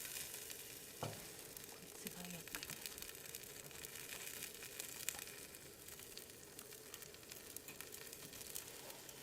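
Yakitori chicken skewers grilling over a wood fire in a fireplace: a faint, steady sizzle with scattered small crackles, and a soft knock about a second in.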